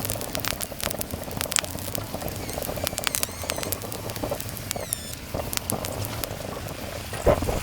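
Meat sizzling on a grill plate set on a kerosene heater, with fat spattering in many sharp pops and crackles over a steady hiss. A couple of louder short knocks come near the end.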